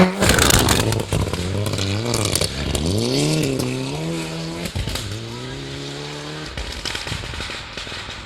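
Rally car going by at speed on a winter stage, loudest right at the start. After that the engine note drops and climbs again through throttle lifts and gear changes, then holds steady before cutting out as the car moves away.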